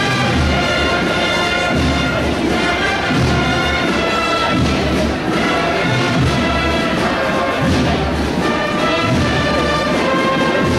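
Brass band playing a slow processional march: held brass chords over deep bass notes recurring about every one and a half seconds.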